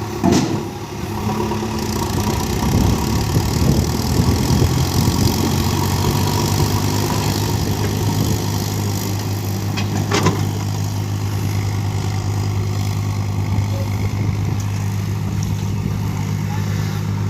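A heavy vehicle's diesel engine runs steadily, louder and rougher for a few seconds near the start. There is a sharp knock right at the start and another about ten seconds in.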